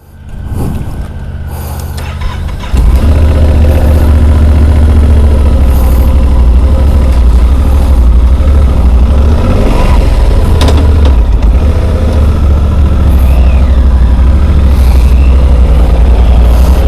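Motorcycle engine running at idle, then about three seconds in a much louder, steady low rumble takes over and holds.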